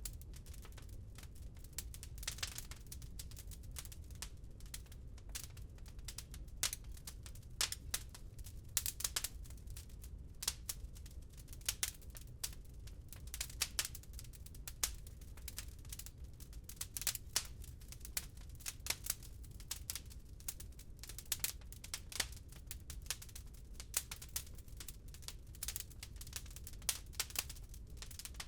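Wood fire crackling in a fireplace: irregular sharp pops and snaps, several a second and some louder than others, over a steady low rumble.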